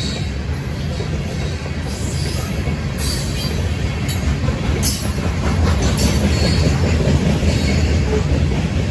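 Freight train of covered hopper cars rolling past close by: a steady low rumble of steel wheels on rail, with brief sharp clicks every second or two.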